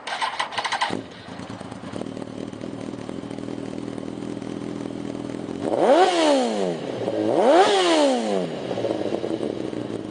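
2006 Kawasaki ZX-10R's inline-four engine with a Two Brothers aftermarket exhaust being started: the starter cranks for about a second before the engine catches, and it then settles into a steady idle. Past the middle it is revved twice in quick throttle blips, each rising and falling back to idle.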